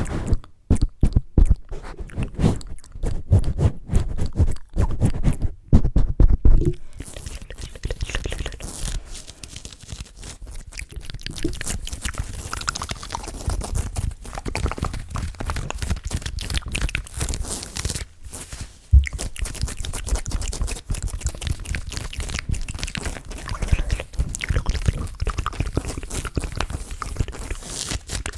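Close-miked ASMR trigger sounds made by hands working right at a microphone: rapid, muffled thumping for the first several seconds, then a continuous crackly, crunching scratching texture.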